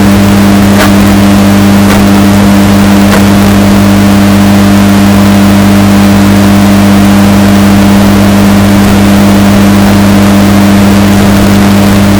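Washing machine running with a steady low hum, heavily bass boosted and distorted to a loud, clipped drone.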